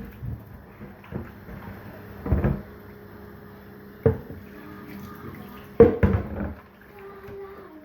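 Rice being rinsed in water in a bowl or pot, with water sloshing and three short knocks of the vessel.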